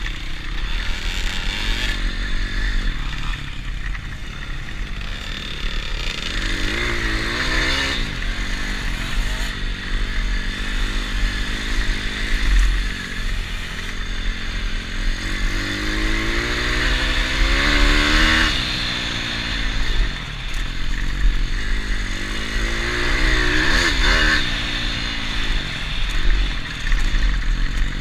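Pit bike engine being ridden hard, revving up and down; the pitch climbs three times and falls away sharply after each climb.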